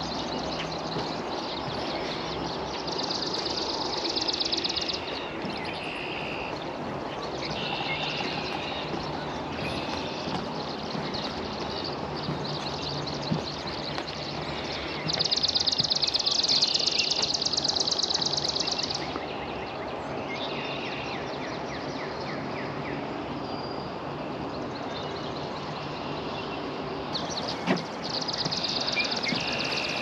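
Songbird singing a high, rapid trill of evenly pulsed notes lasting a few seconds, repeated four times with pauses between, the longest and loudest near the middle. Under it runs a steady background rumble with a faint low hum.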